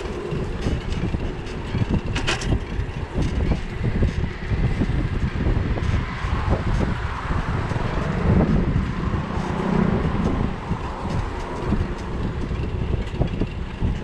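Riding noise from a bicycle on wet city streets: a steady rumble of wind on the mounted camera and tyre noise, with frequent small knocks and rattles from the bike. There is a sharp click about two seconds in, and a louder low hum swells around eight to ten seconds in.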